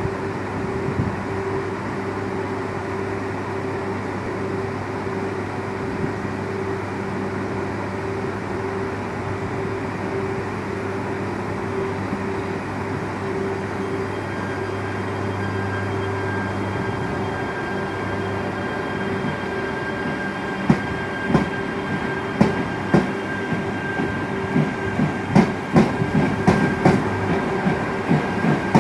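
Yamagata Shinkansen E3-series train pulling away from a stop: a steady hum from the train's running equipment, joined about halfway by a higher whine. Wheels start clacking over rail joints about two-thirds of the way in, coming faster as the train gathers speed.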